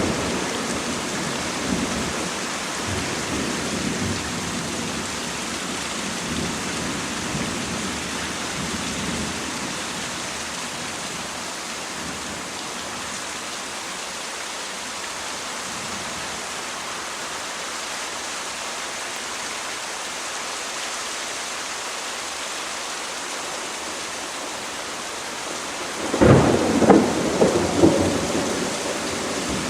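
Thunderstorm: steady rain hiss throughout, with a low roll of thunder fading over the first ten seconds or so. About 26 seconds in a loud thunderclap breaks out, cracking several times over about two seconds before dying away.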